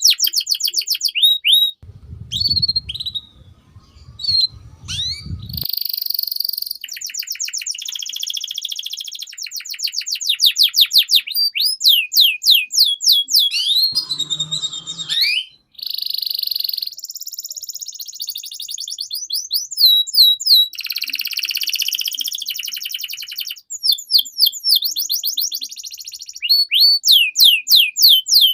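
Domestic canary singing a long, continuous song. It runs through fast rolling trills and rapidly repeated notes, switches between phrases every second or two, and pauses only briefly. A low rumble sits under the song from about two to five and a half seconds in.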